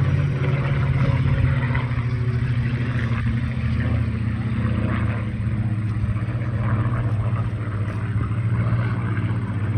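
V-12 piston engines of a Supermarine Spitfire Mk 18 (Rolls-Royce Griffon) and a P-51D Mustang (Rolls-Royce Merlin) droning steadily as the two fighters fly past in formation.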